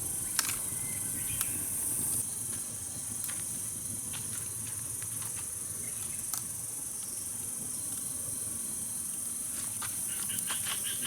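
Insects chirring steadily at a high pitch, with scattered faint clicks; a second, pulsing chirp joins near the end.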